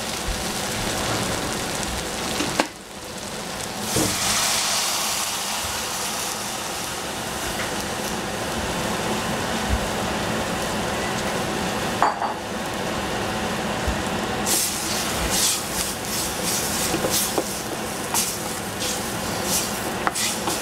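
Cauliflower and carrots sizzling in a stainless steel saucepan over a gas flame while a wooden spoon stirs and scrapes them. The sizzle drops briefly about three seconds in and again about twelve seconds in, and light knocks of the spoon on the pan come through the second half.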